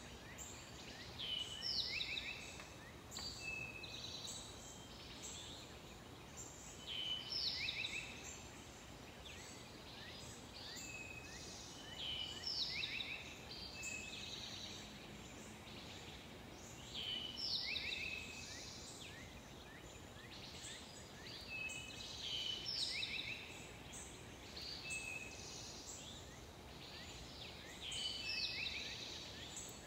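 Birdsong: a songbird repeats a short phrase of quick falling whistled notes about every five seconds over a steady outdoor hiss.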